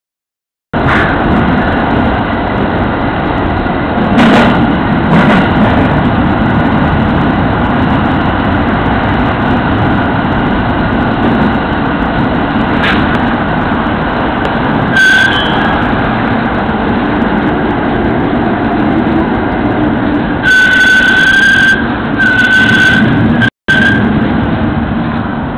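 Rinkai Line electric train running into a station, heard from inside the front car: a steady rumble of wheels on rail with a few sharp clicks. In the last several seconds a high-pitched tone comes and goes several times as the train arrives.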